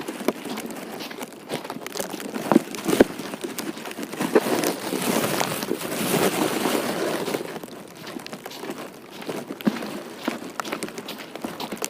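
Crackling, crunching footsteps on icy slush, with sleet pattering down; the noise swells for a few seconds near the middle.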